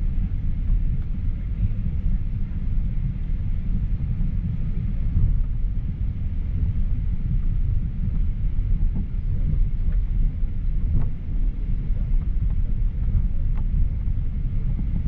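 Steady low rumble of a Boeing 737-800's engines and airframe heard inside the passenger cabin, with a faint steady high whine over it.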